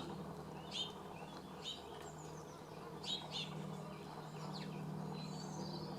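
Small birds giving short, faint chirps, about one a second, over a low steady hum.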